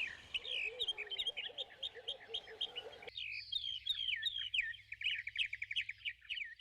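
Small birds chirping and twittering in quick repeated notes. A lower warbling call runs alongside for the first three seconds, then the high chirps carry on alone.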